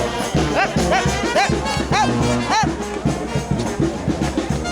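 New Orleans brass band playing second-line music, horns over a steady low beat. About half a second in, a horn plays a short note that bends up and falls back, five times in quick succession.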